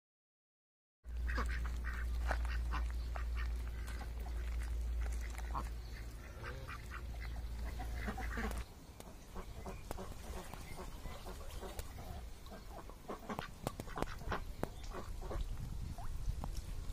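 A group of ducks quacking, many short calls one after another. A steady low rumble underlies the first half and stops abruptly about halfway.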